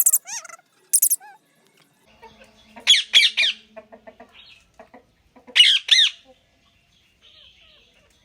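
Pet green parrot (tiya pakhi) calling in short, high, repeated squawks. They come in clusters, the loudest group about three seconds in and another about six seconds in.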